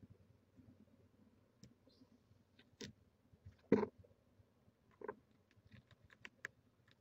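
Scattered knocks and clicks from barn owls moving about on the wooden nest box, the loudest a little under four seconds in and a quick cluster near the end, with a brief faint hiss about two seconds in.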